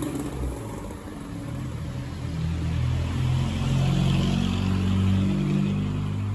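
Car engine running with road noise, the engine note climbing and getting louder about halfway through as the car speeds up.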